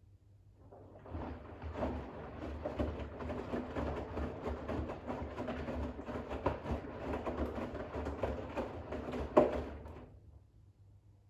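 Bosch WAX32GH1 front-loading washing machine's drum turning in a rinse: wet towels tumbling and water sloshing for about nine seconds, with one sharp knock near the end before the drum stops.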